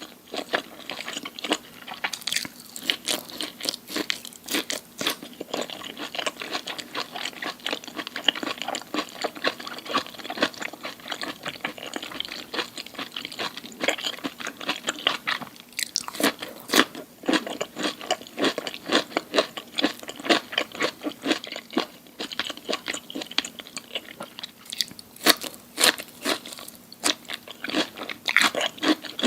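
Close-miked chewing and crunching of crisp food, a dense run of irregular crunches with no let-up. Louder, sharper crunches come in clusters about halfway through and again near the end.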